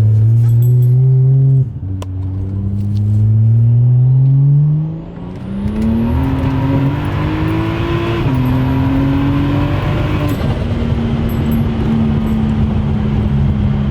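Turbocharged BMW N55 inline-six with a big single turbo, pulled hard under acceleration: the revs climb, then drop sharply with each of about four upshifts, and settle to a steady cruise in the last few seconds. A faint high whine climbs in pitch through the middle of the pull.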